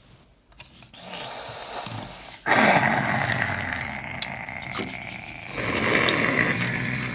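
A child's rasping, throaty growl voicing a toy dinosaur, in two breaths: a short one about a second in, then a longer, louder one from about two and a half seconds.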